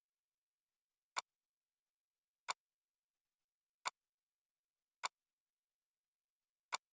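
Single sharp clicks, five of them at uneven intervals of roughly a second and a half, like a computer mouse being clicked.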